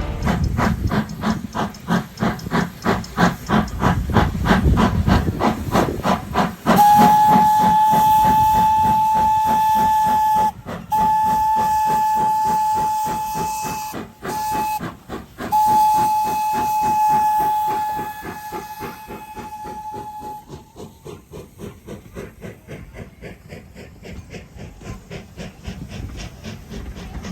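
Steam locomotive chuffing in a steady, even beat. About seven seconds in, its whistle starts a long, steady blast that breaks off briefly twice and stops near two-thirds of the way through. After that the chuffing continues more quietly.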